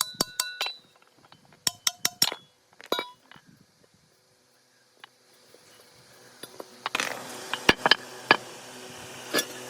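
Small metal parts clinking together: a quick run of sharp, ringing clinks in the first few seconds, then a pause. A faint steady hiss follows, with a few scattered clicks.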